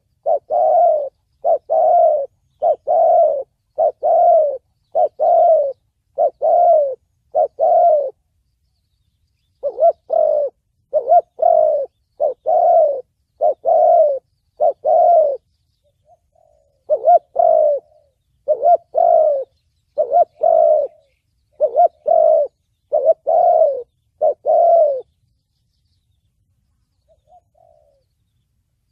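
Spotted dove (chim cu gáy) cooing in the 'thổ bầu' call style: a steady series of low coos, about one a second, in three runs with short pauses between them, falling silent for the last few seconds.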